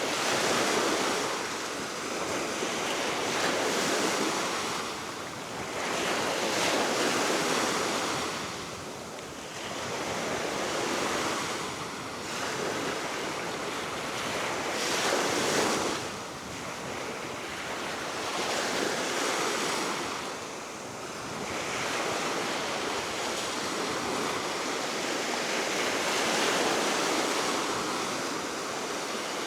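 Sea waves breaking and washing on the shore, swelling and falling away every few seconds, with steady wind and some wind buffeting on the microphone.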